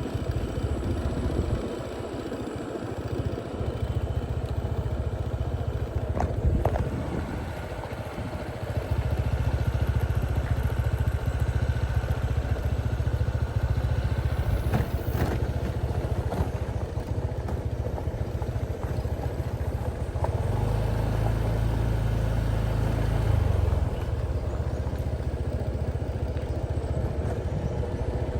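Motorcycle riding along a road, a steady low rumble that gets heavier about nine seconds in, with a few sharp knocks and rattles.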